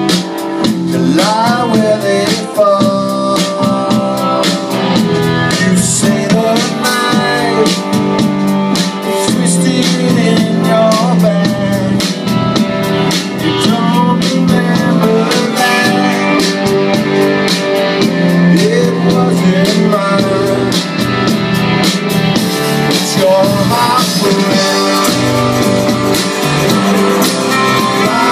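Live rock band playing a song: guitars over bass and a drum kit keeping a steady beat, with melody lines that bend in pitch.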